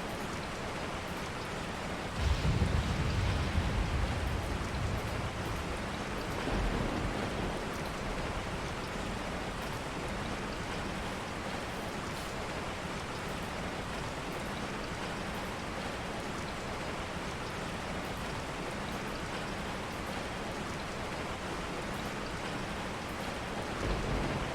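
Steady rain falling, with a low rumble that swells about two seconds in and fades over a few seconds.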